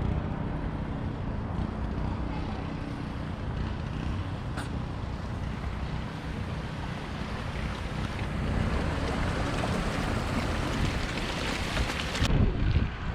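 Wind rushing over the microphone of a moving bicycle, a steady low noise. There is a single sharp click about four and a half seconds in, and a louder, choppier buffeting near the end.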